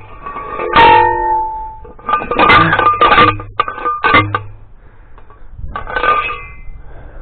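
A hand-held post driver clanging down onto a steel T-post. There are about six irregular strikes, and each one leaves a brief metallic ring.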